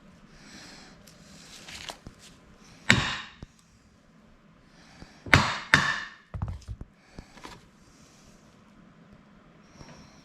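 A few sharp knocks and clanks of hard objects striking, loudest about three seconds in and then twice more in quick succession about halfway, each ringing briefly.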